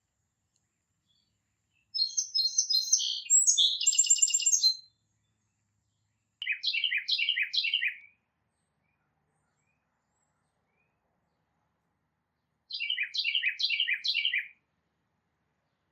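A songbird singing three separate song phrases. The first, about two seconds in, is a varied three-second phrase ending in a buzzy stretch. The next two are shorter runs of about six quick down-slurred notes each, around the middle and near the end.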